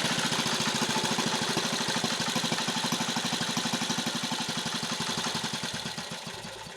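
1950 REO small gasoline engine running, its even firing beats slowing and fading away near the end.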